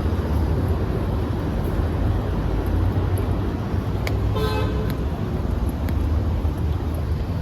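Steady low traffic rumble along a road, with a short car-horn toot lasting about half a second about halfway through.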